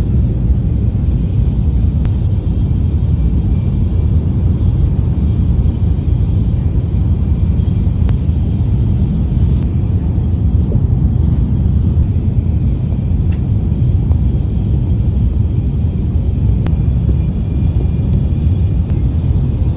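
Steady low rumble of a Shinkansen bullet train running, with a few faint clicks scattered through it.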